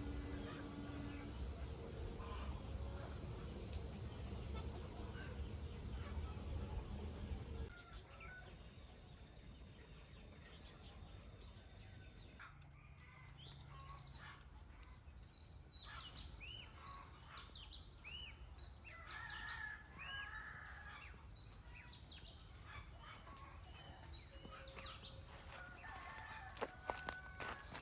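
Faint farmyard sound: a steady high whine over a low hum for roughly the first half. Then comes a stretch of repeated short, high chirping calls from chickens.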